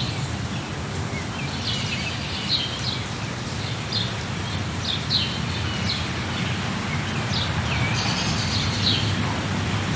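Small birds chirping in short, repeated high calls over a steady rushing hiss of rainfall.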